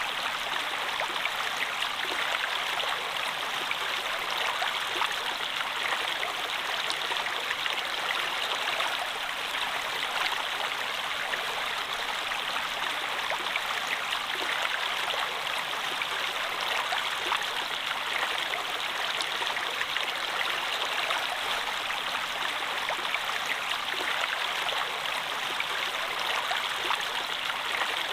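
Running water: a stream flowing and splashing steadily.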